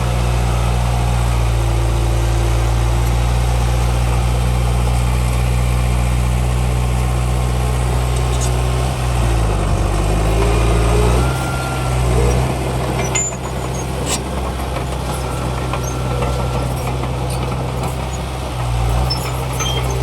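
Heavy diesel engine of construction machinery running steadily. Its pitch drops and then climbs back about halfway through, and a few sharp clicks or knocks come a little later.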